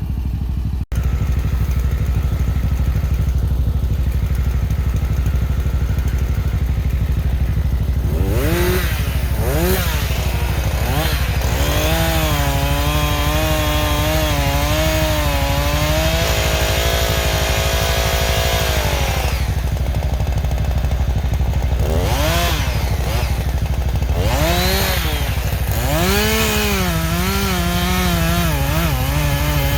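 A tractor engine idles steadily throughout. About eight seconds in, a chainsaw revs up and down, then runs at a steady pitch for several seconds while cutting firewood, and revs up and down again in the second half.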